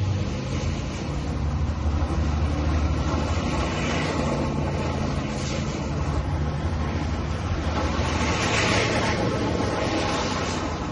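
GMC Sierra pickup's engine running hard and steady during a burnout, its rear tyres spinning on wet pavement with a rushing hiss that swells about four seconds in and most strongly about eight seconds in.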